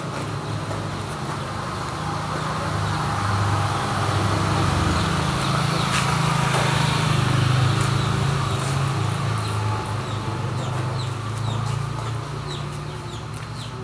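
An engine running steadily, swelling for a few seconds and then easing off, with birds chirping throughout and more thickly near the end.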